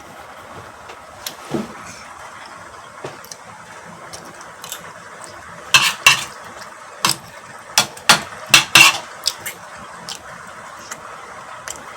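Spoon and fork clinking against a dish while eating: scattered sharp clinks, coming in a quick cluster in the second half.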